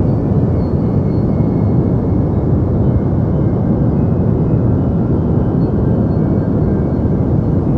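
Deep white noise: a steady, even hiss-like noise weighted heavily toward the low end, more rumble than hiss, with no change in level.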